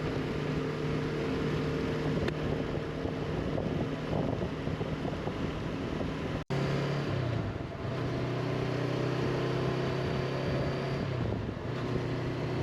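Honda CB500X motorcycle's parallel-twin engine running at a steady cruise, with wind rushing over the microphone. The engine note drops in pitch a little past halfway and again near the end, and the sound cuts out for an instant just before the middle.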